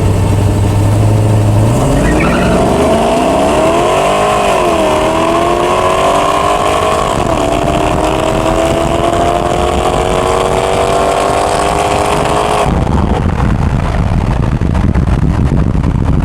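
V8 pickup truck engine launching hard from a stop: a steady held rev for the first couple of seconds, then the revs climb, drop back at two upshifts and keep pulling, until the driver lifts off near the end and a rushing noise takes over.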